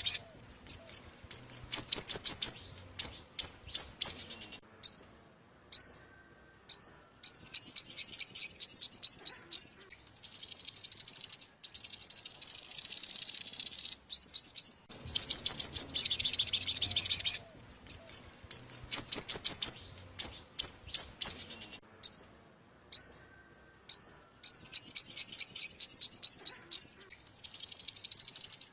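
Sunbird song: high-pitched rapid trills of quick repeated notes, in bursts of one to three seconds with short pauses and a few single chips between them.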